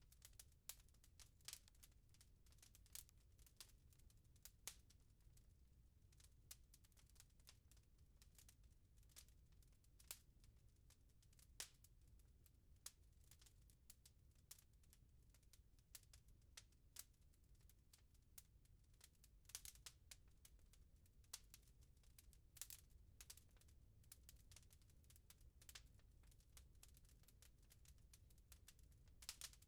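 Wood fire crackling faintly in a fireplace: irregular sharp pops and snaps over a low, steady rumble of the burning logs.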